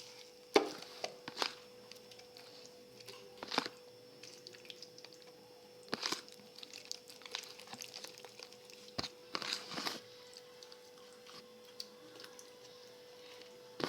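Raw chicken pieces being worked by hand in an oily marinade: scattered wet squelches and short knocks, with a faint steady hum underneath.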